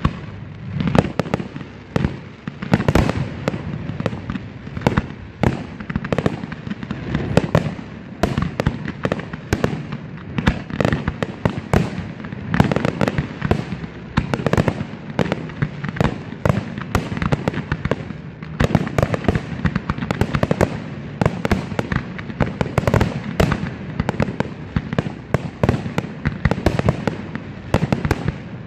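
Fireworks display: a rapid, irregular barrage of aerial shell bursts and crackling bangs, several a second, over a continuous rumble.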